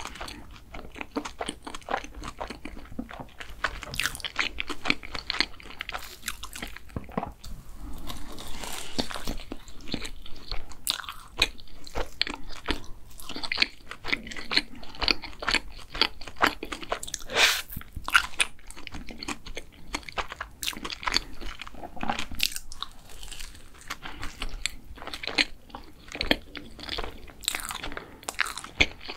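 Close-miked chewing of a mugwort-cream doughnut, soft fried dough with whipped cream filling, in a dense, irregular run of sharp wet clicks and smacks.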